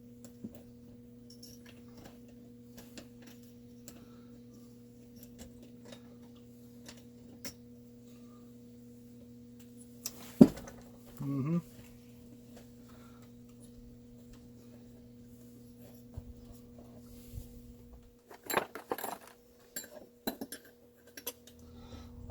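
Small metal chainsaw parts and hand tools clicking and clinking during bench reassembly, with one sharp knock about ten seconds in and a cluster of clicks near the end, over a steady low hum.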